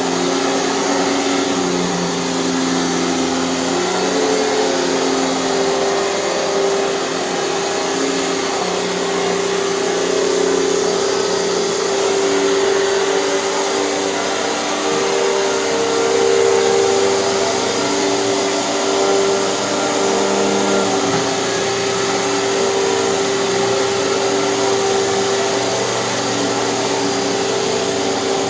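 Hoover canister vacuum cleaner running steadily with a power nozzle, its motor whine shifting slightly in pitch.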